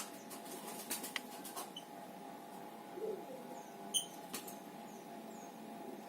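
Pet lovebirds giving faint, short, high squeaky chirps, with scattered sharp clicks and taps, the loudest about four seconds in.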